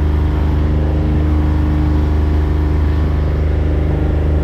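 Tour boat's engine running steadily under way: a constant, loud low drone with an even hum.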